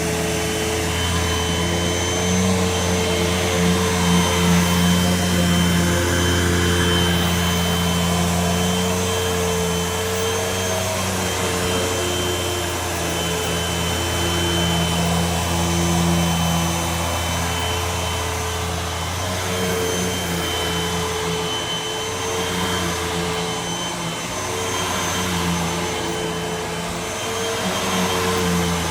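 Hoover WindTunnel upright vacuum cleaner running continuously, its motor hum wavering slightly in pitch and level.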